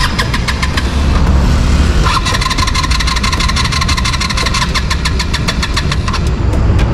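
A motorcycle that has just slid over in a crash being started to see whether it still runs: a rapid, even ticking of the engine that breaks off briefly about two seconds in, picks up again and stops a second before the end, over a steady low rumble.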